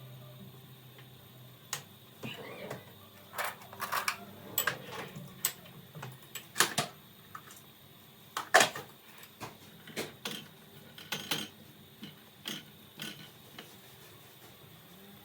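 A series of irregular light clicks and knocks of small hard objects being handled and set down, uneven in spacing and loudness, with one sharper knock past the middle.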